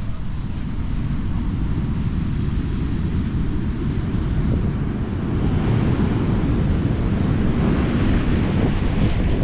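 Wind buffeting the microphone in a low rumble over Atlantic surf, the hiss of breaking surf swelling near the end.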